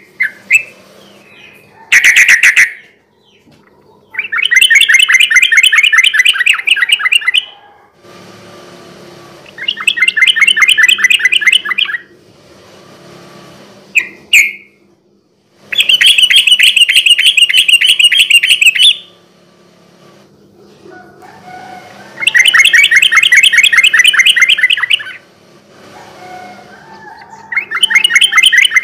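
Yellow-vented bulbul (trucukan) singing in loud bursts of fast, rolling repeated notes, each burst lasting about three seconds, with short pauses between them. A faint low hum sits under the pauses.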